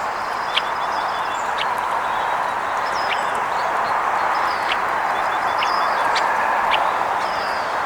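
Small birds chirping repeatedly, short high calls, over a steady rushing background noise.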